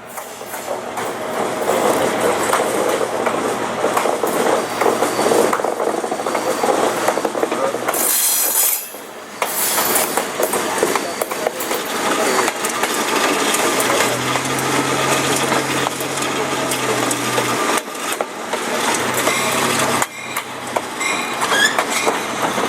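Train led by an ex-CSX GE U-boat diesel locomotive running past, with a steady rumble of wheels on rail and a low diesel drone underneath. The sound drops out briefly about eight seconds in.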